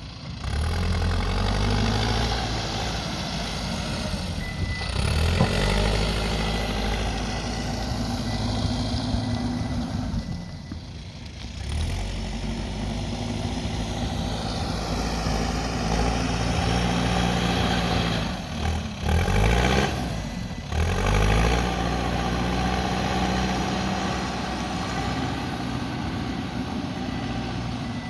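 Backhoe loader's diesel engine running under working load, its revs rising and falling as it moves dirt, with a few short dips where the sound drops away.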